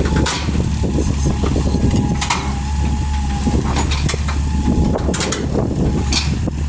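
A motor vehicle engine runs steadily, with scattered knocks and clanks over it. A thin high whine comes and goes a few times.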